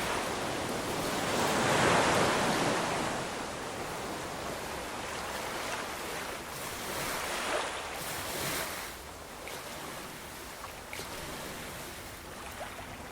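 Ocean waves breaking and washing on a shore: one large wave crests about two seconds in, smaller ones follow around seven and eight seconds, then a lower steady wash.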